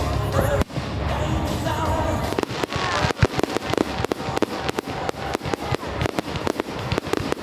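Fireworks show: a low rumble, then from about two seconds in a rapid run of sharp bangs and crackles from bursting shells, with music playing underneath.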